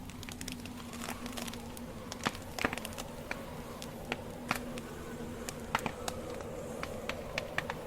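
Wood campfire crackling, with frequent irregular sharp pops and snaps from the burning logs, over a faint steady hum.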